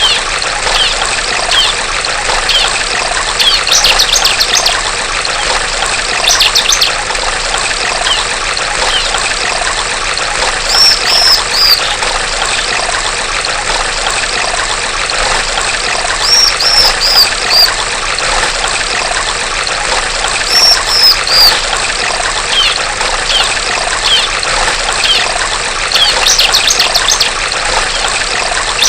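Steady babbling of a trickling stream, with a female bar-winged prinia (ciblek) calling over it every few seconds: short bursts of rapid high notes, and runs of three or four high descending chirps.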